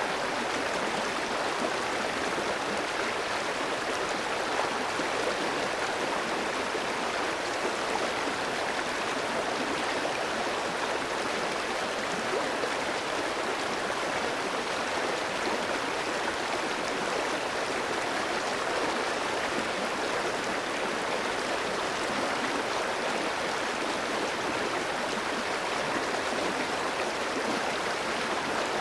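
Clear mountain stream flowing over rocks: a steady rush of running water.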